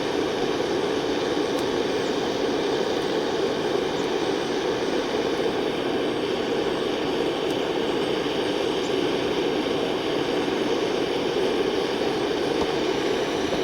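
Handheld gas torch burner running with a steady roar, held to slightly damp firewood to get a campfire going.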